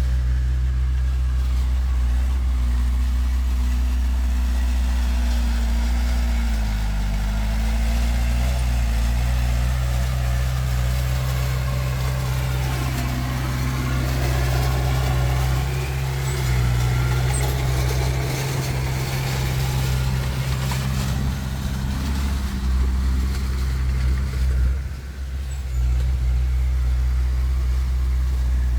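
Komatsu D20P bulldozer's diesel engine running steadily, its pitch dipping briefly about seven seconds in and the sound busier through the middle as the load changes. The level drops briefly near the end.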